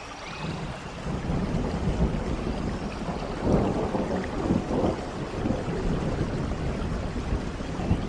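Rain falling, with a low rolling rumble of thunder that swells in about half a second in and is loudest around the middle.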